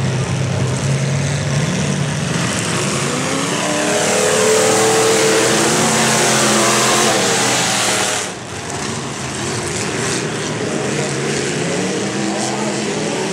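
Demolition derby cars' engines revving as the cars drive around the dirt arena, rising in pitch and loudest as a car passes close by about four to eight seconds in, then dropping off abruptly about eight seconds in while engines keep running further away.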